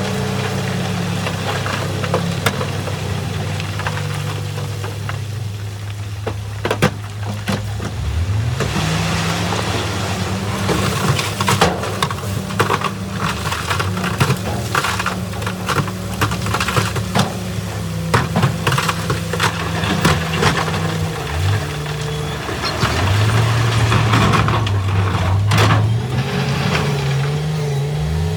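Heavy earth-moving machine's diesel engine running under load, its pitch rising sharply about eight seconds in and again near the end, over many sharp knocks and clanks.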